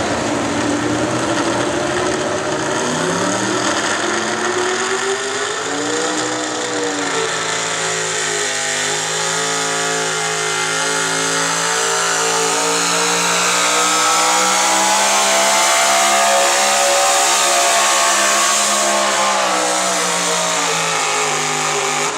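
Gasoline 4x4 pulling truck's engine at high revs under load while pulling the sled: the pitch climbs, sags briefly, then holds high and steady before dropping away near the end as the driver comes off the throttle.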